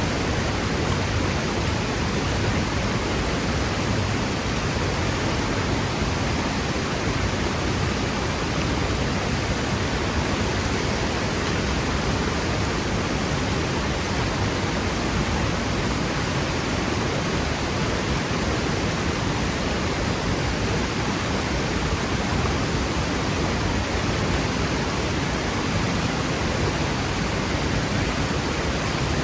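Powerful waterfall crashing down rock cliffs: a steady roar of rushing water, even and unbroken throughout.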